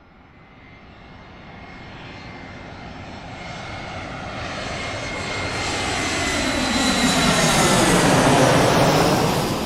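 Airplane flying past: its engine noise swells steadily from faint to loud, peaks near the end with a falling, sweeping tone as it comes closest, then starts to fade.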